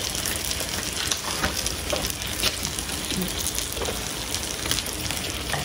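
Food frying in a hot pan: a steady sizzle with scattered small crackles.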